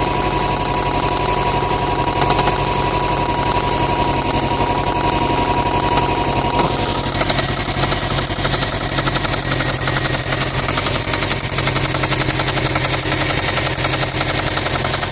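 A 2008 Subaru STI's turbocharged flat-four engine running with a fast, even knocking that grows clearer about halfway through. It is rod knock from a failing connecting-rod bearing.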